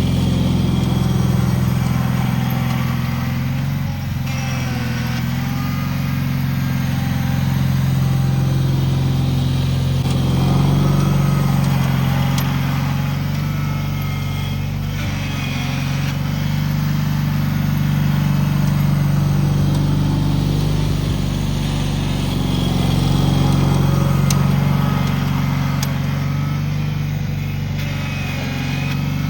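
Cub Cadet 782 garden tractor engine running steadily, its pitch and loudness drifting a little up and down.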